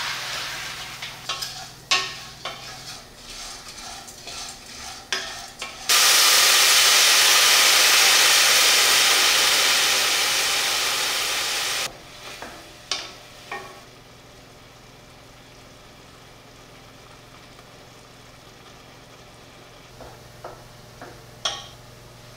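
Garlic sautéing in a sauté pan on a gas hob, with a spoon stirring, scraping and tapping against the pan. About six seconds in, a loud sizzle starts abruptly, fades slowly over about six seconds and cuts off sharply. A few light taps follow over a low, steady background.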